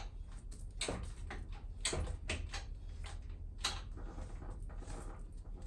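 A string of sharp mechanical clicks and knocks at uneven spacing, the loudest about two seconds in, from hand work on a Harley-Davidson Sportster motorcycle.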